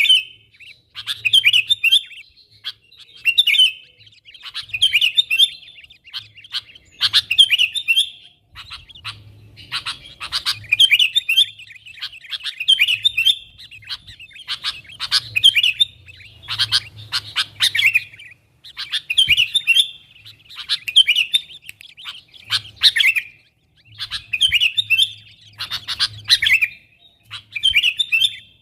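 Sooty-headed bulbul (kutilang) calling over and over in short, lively chattering phrases about one to two seconds apart, the contact call used to lure wild bulbuls in.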